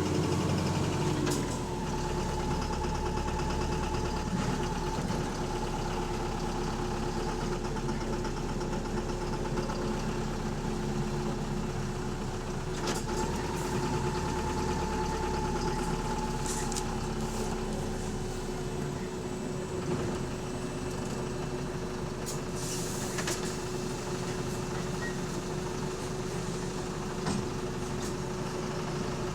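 Bus engine running with a loud knock, which the uploader takes for rod knock, over a steady whine; the low rumble drops away about two-thirds of the way through.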